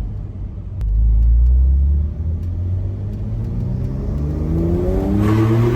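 Porsche 992.2 Carrera Cabriolet's turbocharged flat-six under load, with a strong low surge about a second in, then revving up steadily through a gear, its note rising. Near the end a rushing hiss joins the engine.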